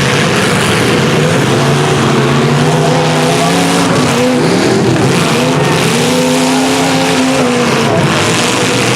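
Engines of several demolition-derby trucks and SUVs revving at once, their pitches rising and falling over one another.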